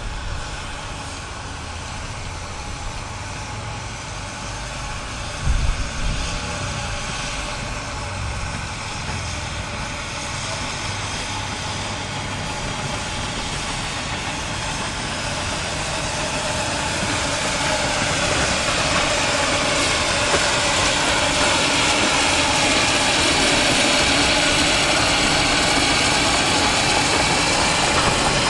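A miniature-railway train running, a steady mechanical sound that grows louder through the second half as it draws nearer. There is a brief low thump about five seconds in.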